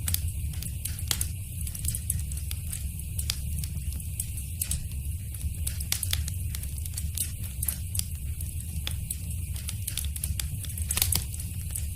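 Wood fire crackling in a fireplace: frequent irregular sharp pops and snaps over a steady low rumble of the flames, with a louder cluster of pops near the end.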